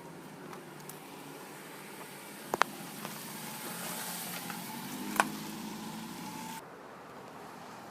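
2015 Ford Fusion SE engine idling steadily, with a few sharp clicks: a quick pair about two and a half seconds in and another about five seconds in. The hiss drops off suddenly near the end.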